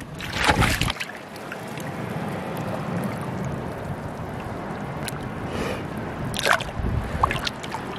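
Shallow seawater sloshing and gurgling among rocks as a hand gropes in a flooded crevice, with a few sharper splashes near the start and again about six and a half seconds in.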